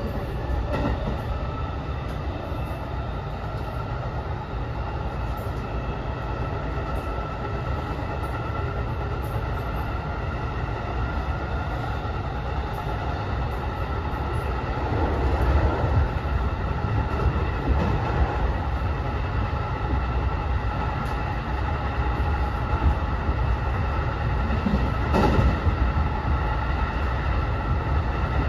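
Running noise inside the passenger compartment of a JR West 207 series electric train's unpowered trailer car (SaHa 207-1007): a steady rumble of wheels on rail that grows louder about halfway through, with a few clacks as the wheels pass over rail joints.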